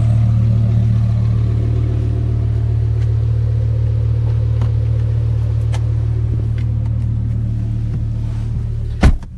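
Audi R8 V10's engine with a Brooke race exhaust running steadily at low revs, a deep even drone without revving. A single sharp, loud thump about nine seconds in.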